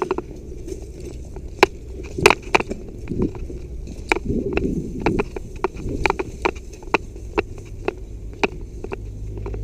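Footsteps of a person walking over rough ground, about two steps a second, with a few sharper knocks, over a low steady rumble.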